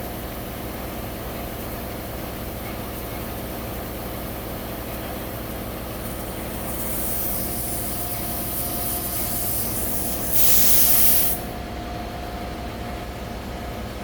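Compressed air hissing as a tractor tire's new inner tube is inflated, over a steady machine hum. The hiss grows about seven seconds in, and a short loud blast of air comes about ten seconds in. The tire bead is creeping onto the rim without a pop.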